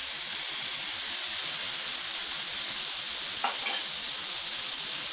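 Diced ham, onions, peppers, mushrooms and tomatoes sizzling in hot olive oil in a skillet, freshly dropped into the preheated pan: a steady high hiss.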